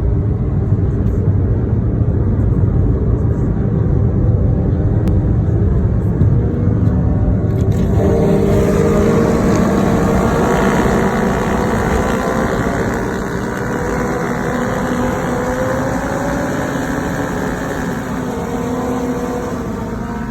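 Motorcycle engines and exhausts of a group ride on a freeway: a dense low rumble at first, then from about eight seconds in several engine notes rise and fall in pitch as the bikes accelerate.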